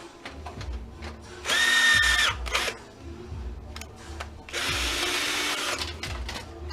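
Power drill run in two short bursts about a second long each, spinning screws out of an old electric stove's sheet-metal panels. The first burst is a steady whine, the second is noisier, with light metal knocks and clanks of handling around them.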